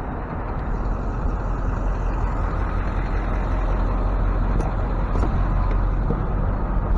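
Tow truck engine running steadily with a low rumble, growing slightly louder.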